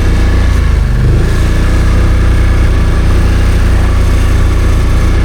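Snowmobile engine running loud and steady at low throttle while breaking trail through deep, loose snow, with a slight drop in pitch about a second in. The rider holds back the throttle because opening it up is no use in this snow.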